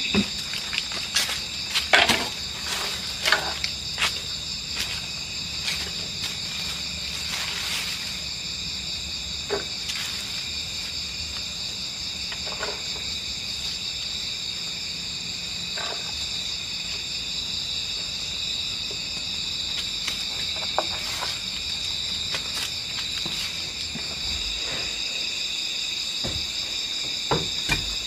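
Steady chorus of crickets and other forest insects, with scattered knocks and clicks, several in the first few seconds and a few more near the end.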